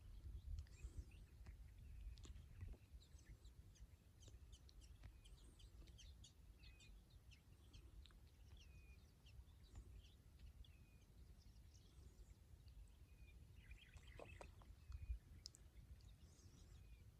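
Faint chirps and short calls of many birds, scattered throughout over a low steady rumble, with a louder cluster of calls about fourteen seconds in.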